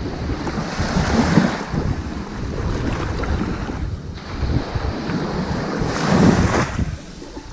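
Ocean waves washing onto a sand beach: a continuous rushing wash that swells about a second in and again more strongly about six seconds in, then eases off near the end.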